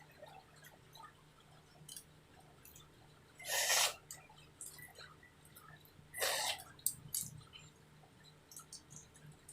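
A person eating: soft scattered mouth clicks of chewing, and twice a short, noisy suck of air, like a slurp from a snail shell.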